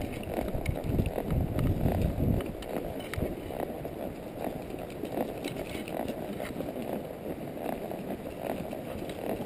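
Palomino Quarter Horse's hooves stepping at a walk, a steady series of soft footfalls. Wind rumbles on the microphone for the first two seconds or so.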